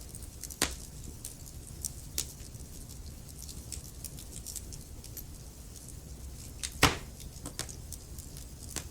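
Wood fire crackling, with scattered sharp pops and snaps over a low steady rumble of the flames; two louder pops, one under a second in and one near the end.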